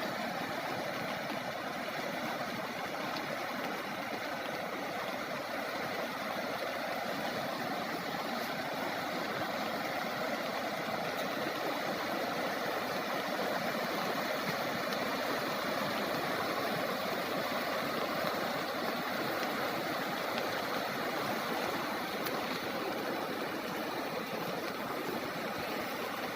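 Floodwater rushing in a steady, unbroken roar of water noise.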